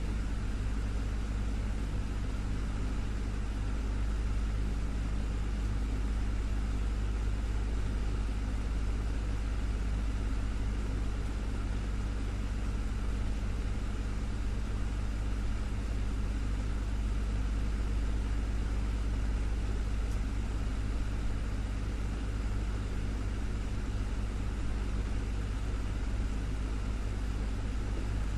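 Desktop fan running steadily, a constant low motor hum under an even whir of air.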